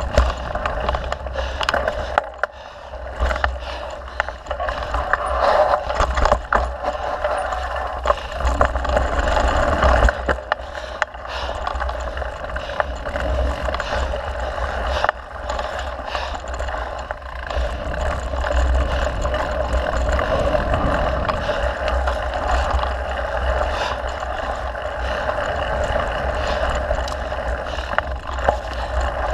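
Mountain bike being ridden along a dirt trail: a steady rush of riding noise with frequent rattles and knocks from the bike over bumps.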